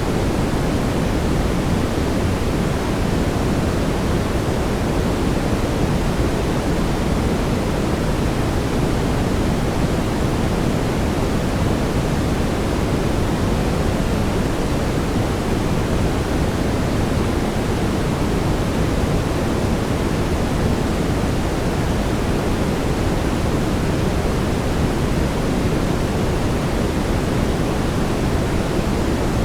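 Steady synthetic brown noise: an even, deep rushing hiss weighted toward the low end, unchanging throughout.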